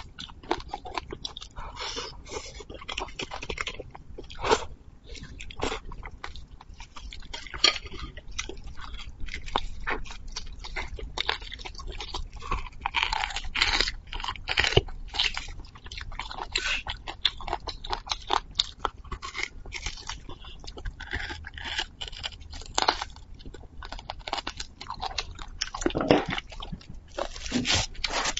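Close-miked eating of a braised beef marrow bone: wet chewing and crunching, with many irregular sharp clicks and smacks.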